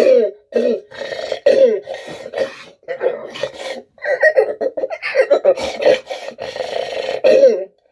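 A man's velociraptor impression voiced into a jug: a run of a dozen or so short calls, many falling in pitch, ending abruptly just before the end.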